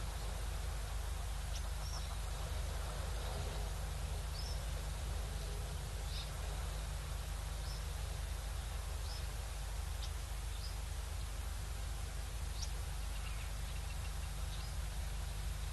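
Outdoor ambience at an African waterhole: a steady low rumble and hiss, with short, high chirps from small birds calling now and then, roughly once a second.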